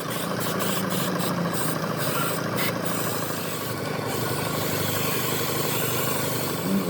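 A steady machine running with a fast, even rattle.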